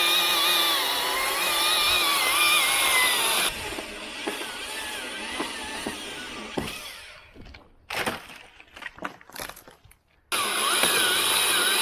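Chainsaw running at high revs through a cut, its pitch wavering under load, then dropping away about three and a half seconds in; a quieter stretch of scattered knocks follows, and the saw is at high revs again near the end.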